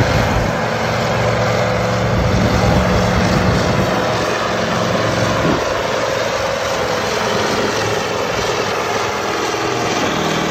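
Oliver 2255 pulling tractor's V8 diesel engine running loud and hard under load down the pulling track, its note shifting about halfway through.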